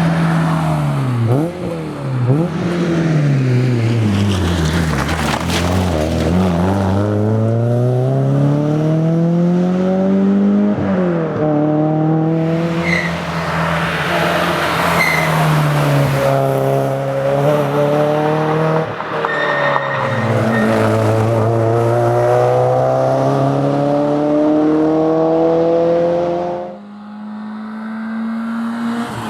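Porsche 968 CS's 3.0-litre four-cylinder engine driven hard, revving up through the gears with a string of gearshifts. The revs drop sharply at each shift and climb again. The engine goes quiet briefly when the throttle is lifted near the end, then picks up again.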